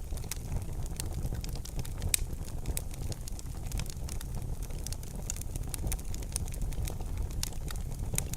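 Wood fire burning in a fireplace: irregular sharp crackles and pops over a steady low rumble of flames, with one louder pop about two seconds in.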